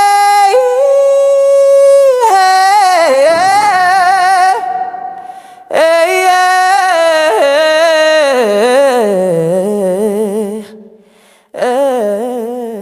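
Wordless AI-generated vocal, humming or singing without accompaniment: long held notes with vibrato and sliding turns, in three phrases broken by short breaths.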